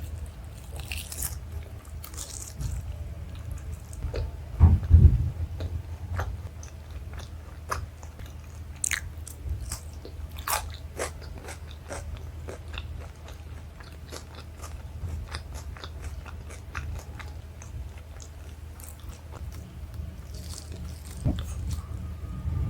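Close-miked eating of chole bhature and rice: biting and chewing with many short wet mouth clicks and some crunching. The loudest moment is a few heavy low thumps about five seconds in.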